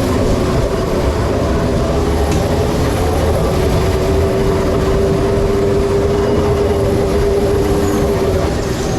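Steady rumble of a moving vehicle, with a single held tone coming in about three and a half seconds in and stopping shortly before the end.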